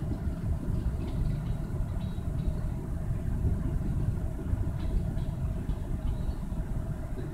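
Kansas City Southern de México freight train's gondola cars rolling past, a steady low rumble of steel wheels on the rails with faint, brief high squeaks scattered through it.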